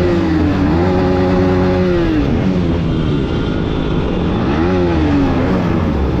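Motorcycle engine revved: it holds a high steady pitch, dips and climbs again early on, then drops back around two seconds in. It rises and falls once more about four and a half seconds in.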